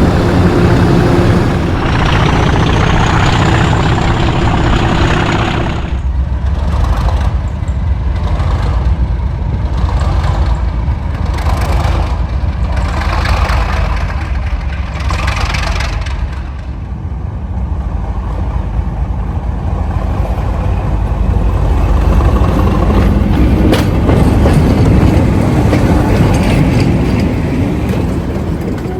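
Class 37 diesel locomotive D6700's English Electric 12CSVT V12 engine running loud and deep, its sound changing abruptly about two and six seconds in, with a sharp click near the end.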